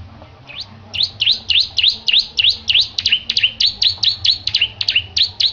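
Bar-winged prinia (ciblek) singing a fast run of sharp, high, repeated sweeping notes, about three or four a second. The run starts about half a second in and breaks off near the end.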